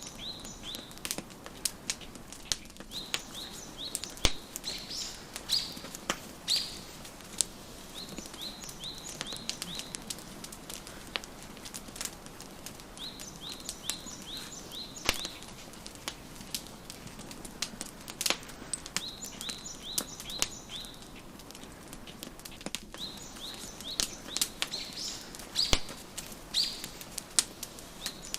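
Wood fire crackling, with sharp pops scattered irregularly over a faint steady hiss. A songbird repeats a short phrase of four to six quick, high chirps about every five or six seconds.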